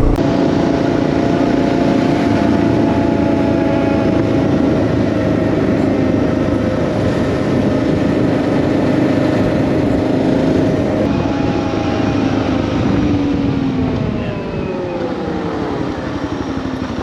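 Suzuki DR650's single-cylinder four-stroke engine running while riding, its note held steady and then falling in pitch late on as the bike slows.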